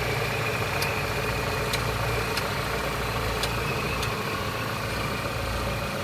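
Opel Z20NET 2.0-litre turbocharged four-cylinder idling, with faint irregular ticks roughly once a second that stop about four seconds in. The ticking is the sign of a failing secondary timing-chain tensioner.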